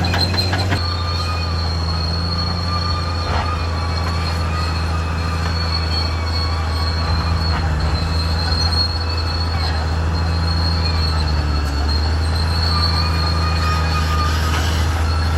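Caterpillar D6R XL bulldozer's diesel engine running steadily with a deep drone. Over it runs a continuous high-pitched metallic squeal, typical of the steel track undercarriage as the dozer moves.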